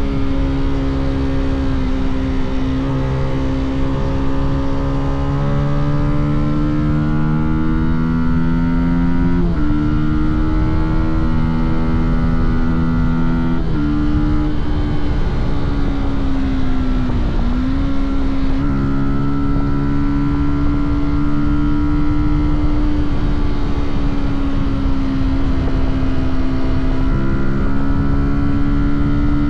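Fantic Caballero 125's single-cylinder four-stroke engine running while riding, its note holding fairly steady between sudden pitch changes about 9.5, 14 and 18 seconds in, as it is shifted through the gears and the throttle is eased. A low rumble runs underneath.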